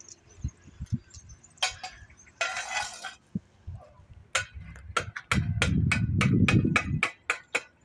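A hand tool tapping on masonry: a run of sharp, evenly spaced strikes, about three a second, starting about halfway through, with a low rumble under them for a second or so.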